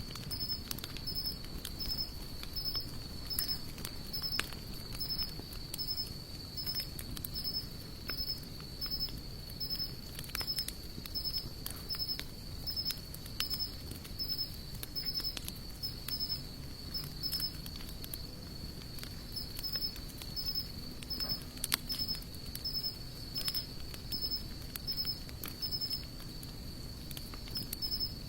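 Campfire of sawtooth oak and mixed hardwood crackling, with irregular sharp pops, the loudest a little past the middle. Behind it, insects chirp in a steady high pulsing rhythm.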